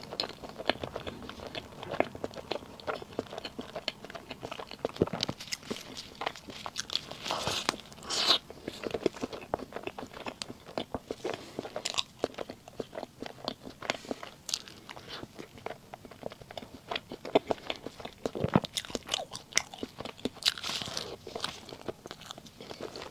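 Close-miked eating: a person biting and chewing dessert, with many irregular crunchy clicks and crackles.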